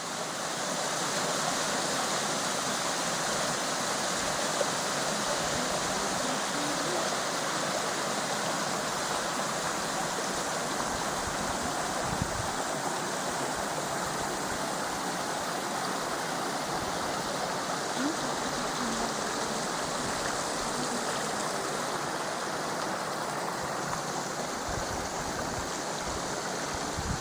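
Steady rush of water at the top of Pinaisara Falls, a 55 m waterfall, as the stream pours over the lip. There are a few brief low thumps.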